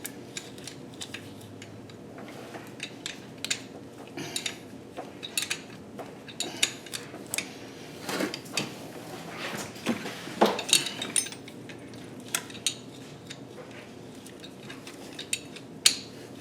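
Metal hand tools clinking and clicking irregularly: a wrench and sockets working at a stuck exhaust manifold fastener on a car engine.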